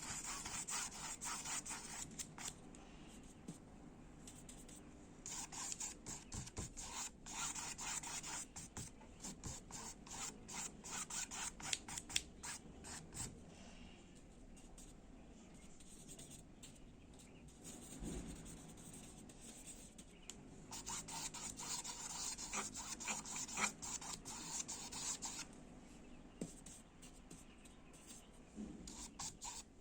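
Paintbrush rubbing across the painting surface in quick, scratchy strokes. The strokes come in spells of a few seconds, with pauses between them.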